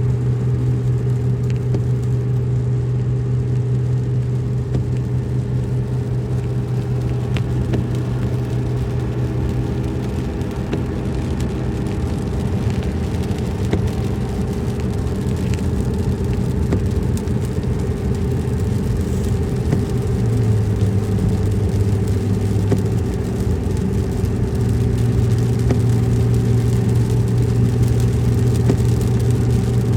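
Car driving along: a steady engine hum with road noise, the engine note shifting about ten seconds in and again about twenty seconds in.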